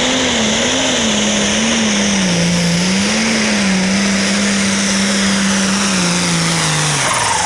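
Light Pro Stock pulling tractor's turbocharged diesel engine running flat out under load. Its pitch wavers and sags, then drops steeply near the end as the engine bogs down: it has got under the turbo.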